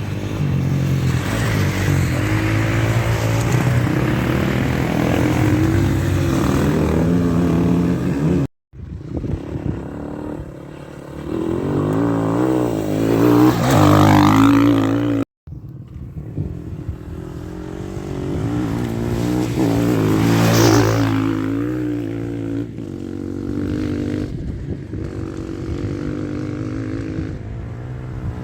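Rally-raid motorcycles running along a cross-country stage, their engines revving up and down as they ride past, loudest in two close passes about halfway and about two-thirds of the way in. The sound cuts out abruptly twice.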